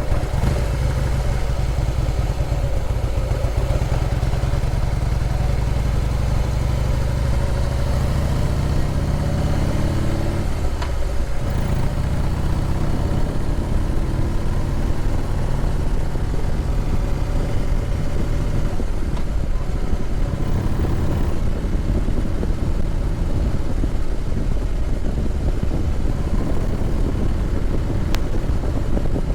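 Harley-Davidson Heritage Softail Classic's V-twin engine running under way. About eight seconds in it climbs in pitch as the bike accelerates, drops suddenly near eleven seconds at a gear change, then runs on at a steady cruise.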